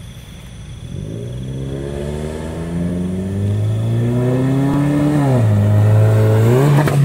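Seventh-generation Honda Accord's i-VTEC four-cylinder engine accelerating, its pitch climbing steadily and growing louder as the car approaches. The pitch falls once about five seconds in at a gear change, then climbs again near the end.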